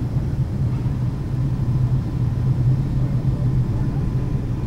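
Steady cabin noise inside a Boeing 757-200 airliner in flight: an even rumble of engines and airflow with a constant low hum.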